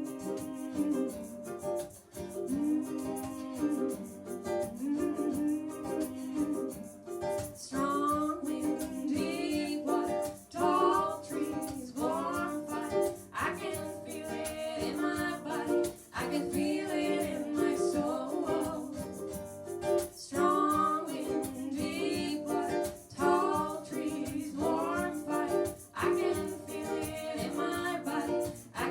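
Live ukulele strumming a reggae rhythm, with women singing the song from about seven seconds in.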